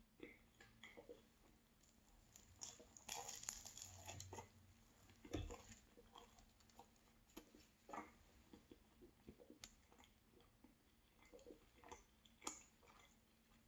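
Faint chewing and biting of a flaky pastry, with scattered small crackles and a louder crackly stretch about three seconds in.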